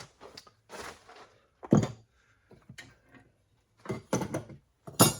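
Workshop handling sounds: a short scrape, then a series of sharp knocks and clunks, loudest near the start of the second and again at the end, as tools and metal parts are picked up and set down.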